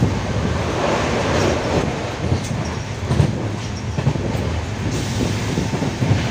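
Passenger train running on the rails: a steady rumble with a few sharp clicks.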